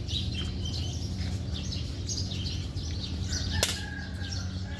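Many small birds chirping in short, rapid calls, with one sharp snap about three and a half seconds in, over a low steady hum.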